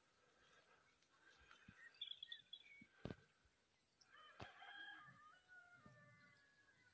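Faint bird calls: brief high chirps about two seconds in, then a longer drawn-out call with several tones from about four seconds in. Two sharp snaps come about three and four and a half seconds in.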